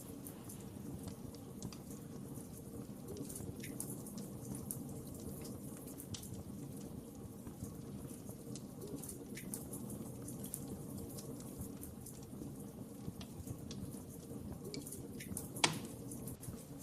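Wood fire crackling over a steady low rush of flames, with scattered small pops and one sharp, louder pop near the end.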